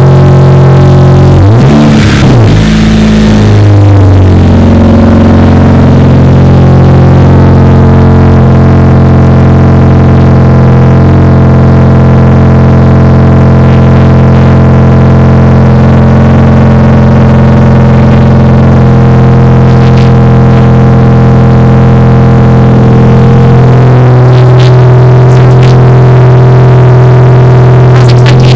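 Honda Civic Si four-cylinder engine through a Tsudo angled canister cat-back exhaust, revving up and dropping back about two seconds in, with steady music throughout.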